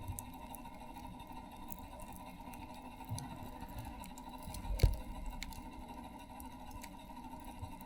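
Campfire wood burning, crackling with scattered sharp pops, and one dull thump a little under five seconds in.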